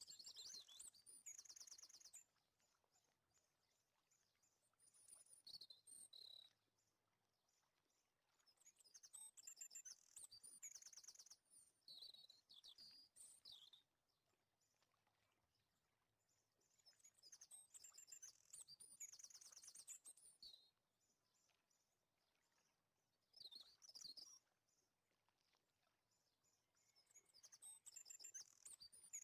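Faint birdsong: bursts of quick, high chirping phrases lasting a second or two, recurring every few seconds with quiet gaps between.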